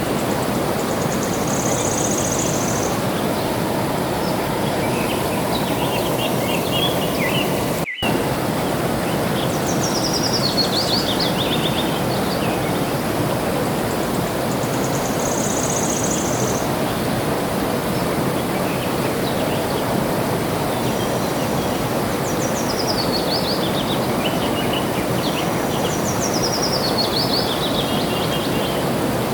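Flowing water running steadily, with birds calling over it: a high, held call twice and several falling runs of quick chirping notes. The sound drops out for a moment about eight seconds in.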